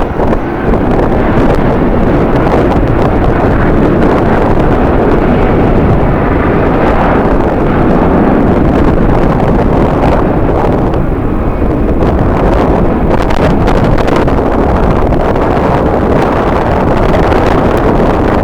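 Strong wind buffeting the microphone: a loud, rough, continuous rumble with gusty fluctuations.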